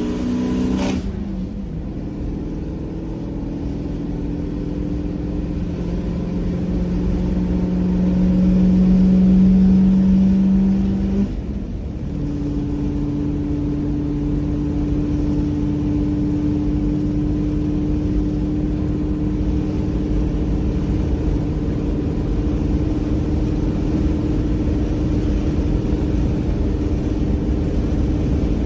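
Built 302 V8 with a Comp Cams 280H Magnum cam, long-tube headers and a small dual-in, dual-out muffler, pulling a 1987 Ford F150 on the road. The engine note drops as it shifts up just before a second in, climbs steadily for about ten seconds, drops again with another upshift, then holds steady at cruise.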